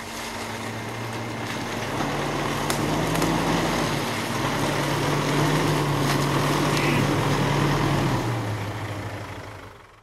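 Off-road vehicle engine running under load on a rough track, its pitch stepping up about two seconds in and again a couple of seconds later, with a few knocks and rattles. It dies down near the end and cuts off abruptly.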